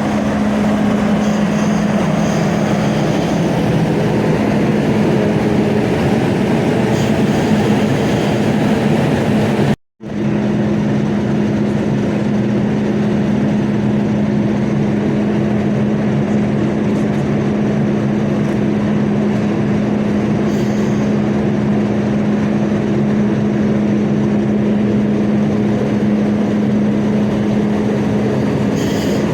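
Class 50 diesel locomotive's English Electric V16 engine running with a train, a loud steady drone over rail rumble. The sound cuts out for a split second about ten seconds in, then the same drone carries on.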